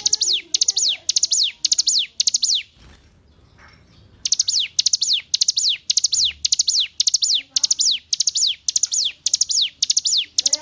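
Bar-winged prinia (ciblek gunung) singing a fast run of high notes, each falling in pitch, about two and a half per second. The run breaks off a little under three seconds in and resumes after about a second and a half.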